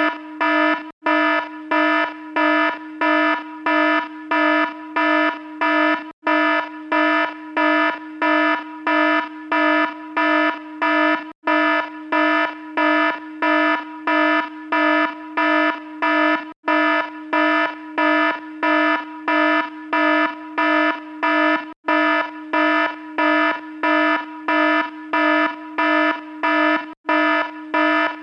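Electronic alarm sounding a buzzy tone in even pulses, about two a second, without letting up. A very brief break in the sound comes about every five seconds.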